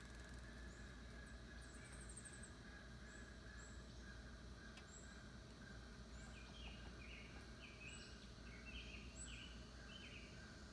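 Faint bird calls: short notes repeating about twice a second, with scattered high chirps, and a quicker run of mid-pitched notes starting a little past halfway.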